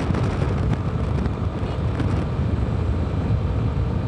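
Steady rumble of wind on the microphone of a moving Yamaha R15 V4 motorcycle, its 155 cc single-cylinder engine and road noise running underneath.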